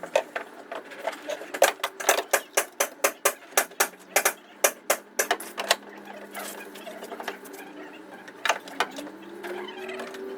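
A fast run of sharp taps or knocks, about four a second for some four seconds, then a few more knocks, over a steady low hum; a rising whine comes in near the end.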